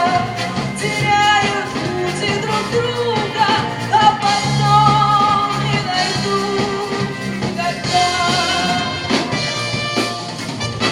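Live band music: a wavering lead melody line over bass and drums, with no sung words.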